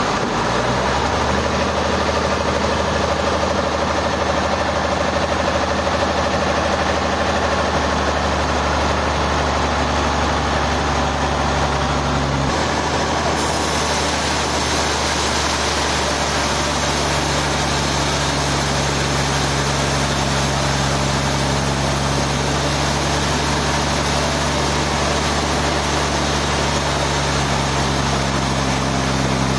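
Sawmill machinery running steadily with a low, even hum and a rushing noise above it. The sound shifts abruptly about twelve seconds in, then carries on just as steadily.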